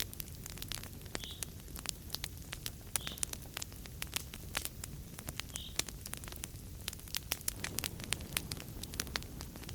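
Fireplace fire crackling: many irregular sharp pops and snaps over a steady low rumble of the flames, with a few brief soft hisses.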